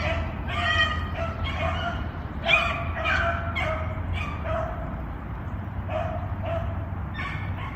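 Beagles baying on a rabbit's scent trail: a quick run of short, high yelps, about two or three a second, with a brief lull about five seconds in before they pick up again. It is the sound of hounds giving tongue while running a hot track.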